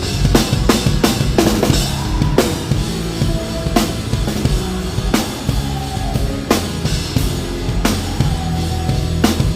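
Live hard-rock band playing, with the drum kit up front: kick drum and snare hits with crashing cymbals over distorted guitar and bass.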